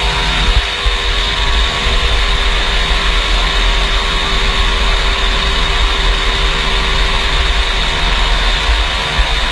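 Motorcycle engines running steadily with a heavy low rumble.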